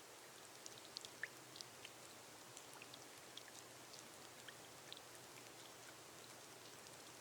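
Gentle rain on a glass roof: a soft, steady hiss with individual drops ticking irregularly, about three a second.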